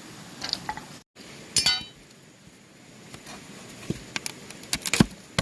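Light clinks and knocks of hard objects: a ringing clink about one and a half seconds in, then a run of sharp knocks near the end.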